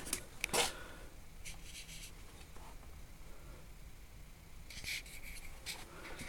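Faint intermittent scraping and rubbing, with a couple of light knocks in the first second: a part of an old Lister engine pump being handled and cleaned by hand.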